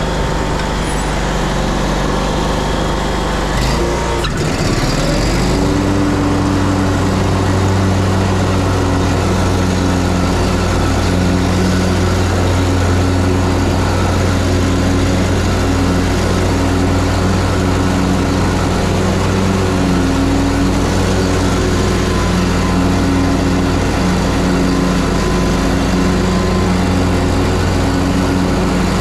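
Engine of a Ferris Z3X 37 hp zero-turn mower running while mowing. About four to five seconds in its pitch dips and climbs, then it holds a steady, slightly louder note.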